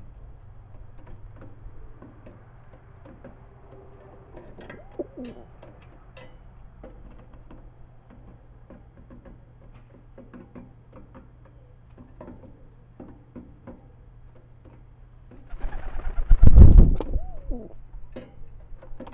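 Pigeons cooing softly, with scattered short taps and clicks. About three-quarters of the way through, a loud rushing burst of noise lasts about two seconds.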